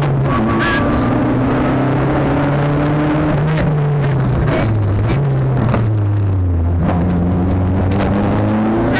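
Nissan Sunny GTI-R rally car's turbocharged four-cylinder engine heard from inside the cabin, running hard at speed. Its pitch sags for a couple of seconds past the middle, then jumps back up and climbs, with scattered sharp clicks throughout.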